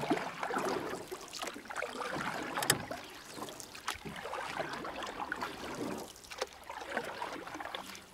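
River water splashing and lapping around a kayak, with many small irregular splashes and knocks.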